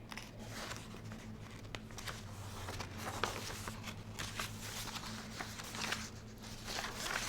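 A quiet room with a steady low electrical hum and scattered soft rustling and handling noises, which become busier about halfway through.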